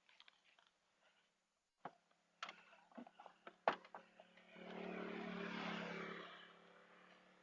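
A few sharp clicks and knocks of gear being handled, then a vehicle going by: a steady low hum with a rush of noise that swells about halfway through and fades away near the end.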